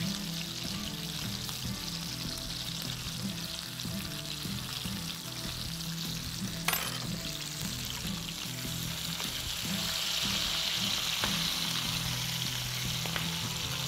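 Chicken wings sizzling in hot oil in a frying pan, the sizzle growing louder in the last few seconds, with a single clink of a fork against the pan about seven seconds in. The sizzle is the water and raw moisture inside the chicken cooking out as it fries through.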